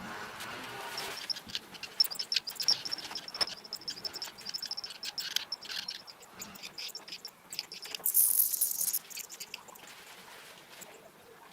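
Nestling birds begging with rapid, high-pitched cheeping while being fed, with clicks and rustling in the nest. A brief loud hiss-like rustle comes about eight seconds in.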